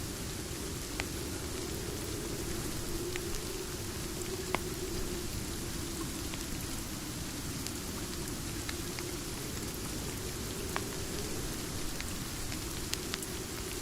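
Steady rain falling, a constant hiss and low rush, with a sharp crackle from a wood fire every few seconds.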